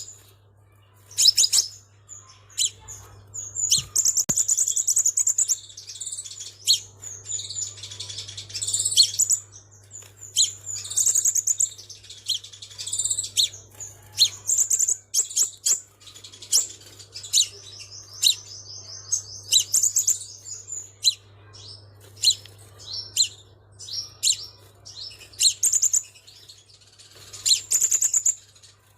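Sunbird singing: a rapid series of sharp, very high chirps broken by fast trills that last a second or two, over a faint steady low hum.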